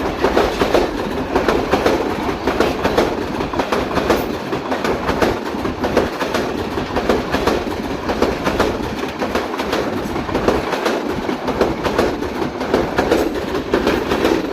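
Passenger express train's coaches rolling past, the wheels clattering over the rail joints in a steady run of clicks over a continuous rumble.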